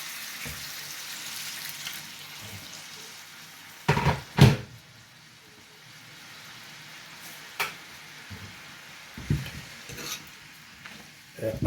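Chicken feet frying in curried oil in a pot, a steady sizzle that dies down about halfway. A spoon knocks against the pot twice about four seconds in, the loudest sounds, with a few lighter clinks later.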